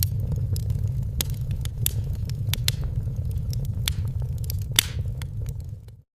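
Wood fire crackling: scattered sharp pops and snaps over a steady low rumble. The sound fades out near the end and drops to silence.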